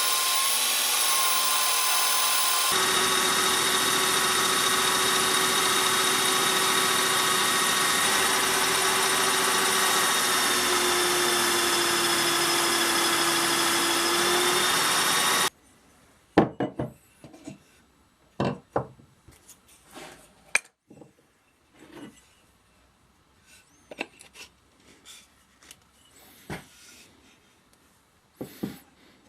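An electric power tool running steadily while working the axe, its tone changing abruptly about three seconds in; it cuts off about halfway through, leaving scattered light knocks and clicks of handling.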